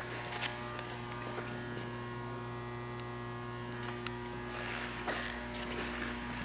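Steady electrical mains hum made of several even tones, with a few faint clicks.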